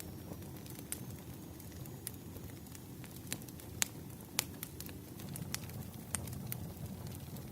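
Wood fire crackling: a steady low rumble with sharp, irregular pops and snaps, about a dozen in a few seconds, two louder ones near the middle.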